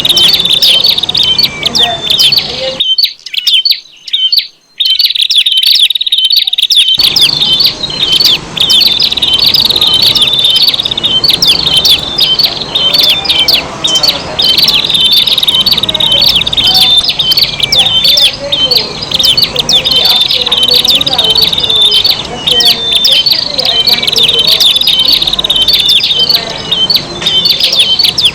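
Prenjak (prinia) calls and rapid chattering song bursts, dense and continuous, as used in a bird-lure track. There is a brief break about three seconds in before the calling resumes.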